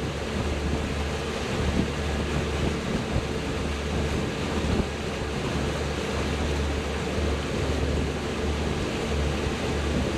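Boat's outboard motor running steadily underway, with water rushing past the hull and wind buffeting the microphone.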